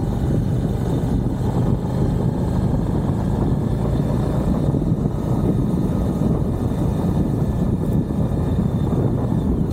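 Suzuki V-Strom 1050XT's V-twin engine running at a steady speed under way, a constant drone mixed with rushing wind and road noise.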